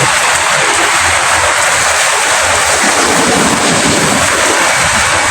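Steady rain falling: a dense, even hiss that does not rise or fall.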